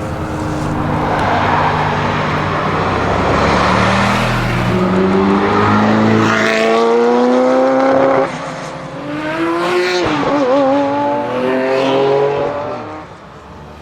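Ferrari F40 LM's twin-turbo V8 pulling hard, its pitch climbing in stages through the revs. The level drops sharply about eight seconds in, the pitch climbs again, and the sound fades near the end.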